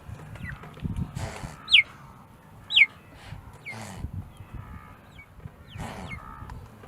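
Chickens calling: a series of short, high chirps that fall in pitch, the two loudest about a second apart. Low rustling and a few brief hissy bursts sound underneath.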